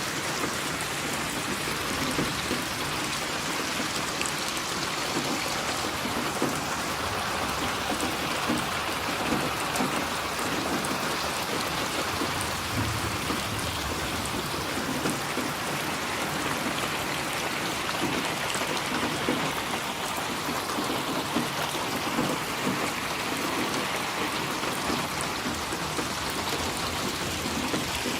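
Steady rain falling: a constant even hiss of water, with countless individual drops ticking through it.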